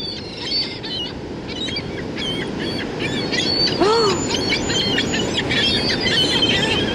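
A flock of gulls calling as they swarm for bread: many short, high cries overlapping one another, over a steady rushing background.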